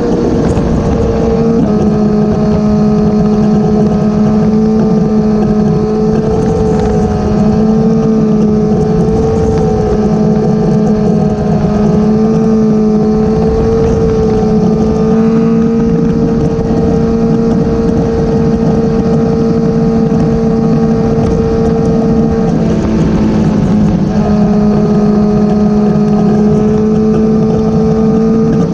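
Motorcycle engine running steadily at cruising speed, with wind noise on the microphone. About three quarters of the way through, the engine note breaks briefly and then settles back to the same steady pitch.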